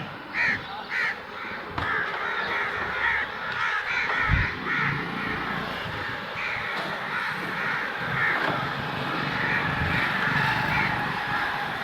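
A flock of crows cawing together, many short harsh calls overlapping continuously, which the filmer takes for an alarm among the birds. A brief low thump about four seconds in.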